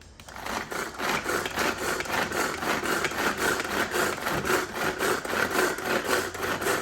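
Pull-string manual food chopper being worked, its spinning blades chopping onion inside the bowl with a fast, rhythmic rasping whirr that starts suddenly and keeps going with each pull of the cord.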